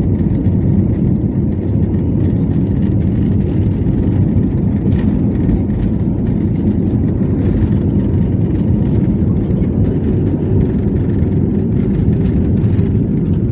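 An aeroplane's engines making a steady, low rumble with no rise or fall.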